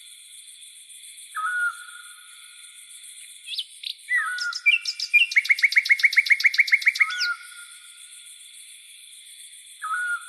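Night birds calling over a steady, high-pitched insect chorus. A short hooked note repeats every few seconds, and a fast trill of about fifteen notes runs in the middle.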